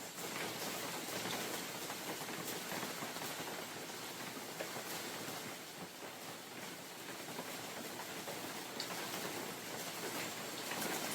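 Steady spring rain falling in a mountain forest: an even hiss of rain with scattered sharper drop ticks.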